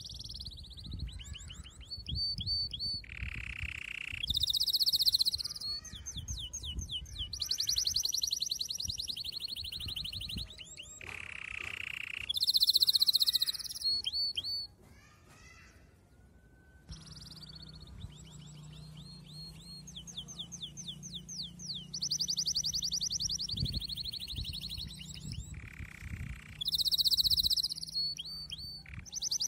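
A small songbird singing: runs of rapid high trills and chirps broken by short pauses. A steady low hum comes in about halfway through.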